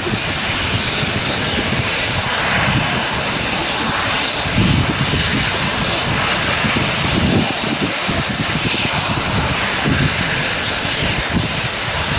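Steam locomotive letting off steam in a loud, steady hiss.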